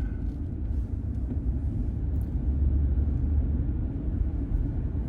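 Steady low road and engine rumble heard inside a moving truck's cabin, swelling slightly partway through.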